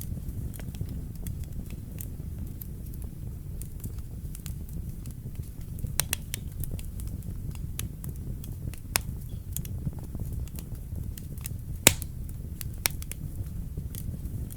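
Wood fire burning in a fireplace: a steady low rumble of flames with irregular sharp crackles and pops, the loudest pop about twelve seconds in.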